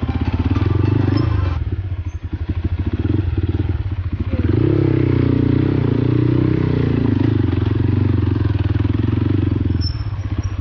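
Motorcycle engine running under way, its note rising about four and a half seconds in, holding higher for several seconds, then easing off near the end.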